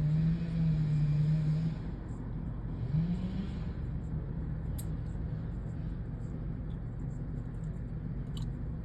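Chainsaw running at full throttle while cutting through a large tree trunk, then easing off; it revs up briefly about three seconds in and runs on more steadily after that.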